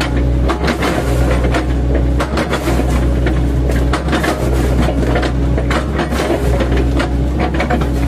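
Diesel engine of an 8-ton excavator running steadily under load, with irregular crunching knocks as the bucket's chipping teeth chop oil palm trunks.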